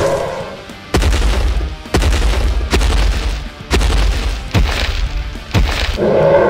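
Cartoon T-rex footsteps: about five heavy, booming stomps roughly a second apart, with a roar starting near the end.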